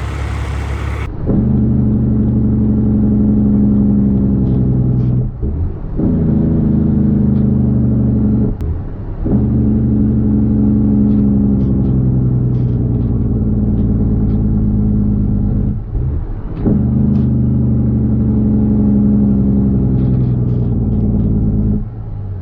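Caterpillar C13 inline-six diesel in a Kenworth W900B dump truck pulling through the gears under load. The engine note drops away briefly at each shift, about three times and again near the end.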